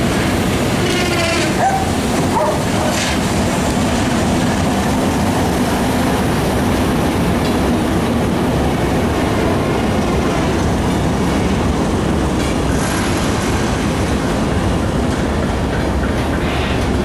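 Diesel-hauled freight train rolling past close by: the locomotive goes by, then flatcars loaded with wooden sleepers, their wheels making a loud, steady rumble on the rails with a faint squeal here and there.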